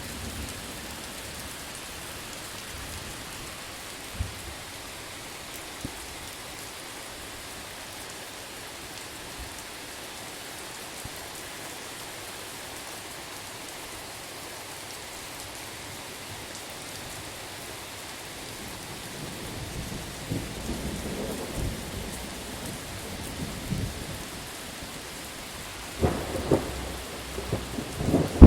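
Steady rain with an even hiss. About two-thirds of the way through, a low thunder rumble builds, with sharper, louder cracks near the end.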